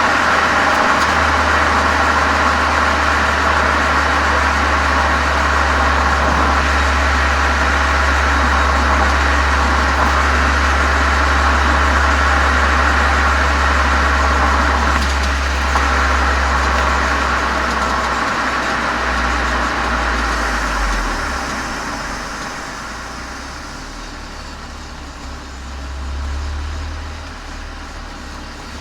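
Exhaust of a Volkswagen Golf 7 GTI's turbocharged 2.0-litre four-cylinder through an aftermarket Cox muffler and chamber, picked up by a microphone outside at the rear of the car. It runs steadily with a deep rumble, then quietens over a few seconds about twenty seconds in, with a brief swell near the end.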